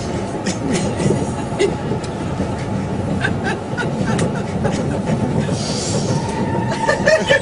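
Passenger train carriage running: a steady rumble with scattered clicks from the wheels over the rails, and a short hiss about six seconds in.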